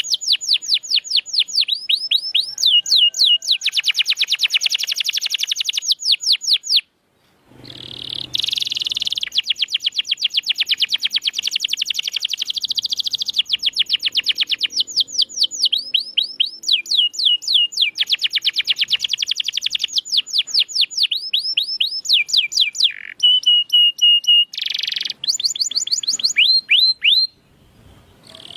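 Domestic canary singing long, rapid trills of quickly repeated down-sweeping notes, changing from one trill pattern to the next, with brief pauses. This is the continuous, full song of a canary in top singing form, used as a master recording to get other canaries to sing. The song cuts out for about a second around seven seconds in.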